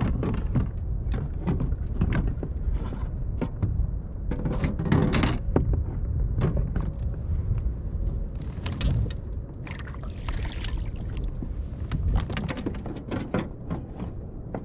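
Irregular knocks, clatter and rustling of gear being handled in a plastic fishing kayak as a fish measuring board is got out and used, with dull bumps against the hull.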